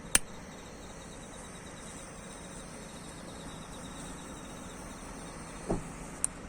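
Faint outdoor ambience with insects chirping steadily. A sharp click sounds just after the start, and a softer knock and a brief tick come near the end.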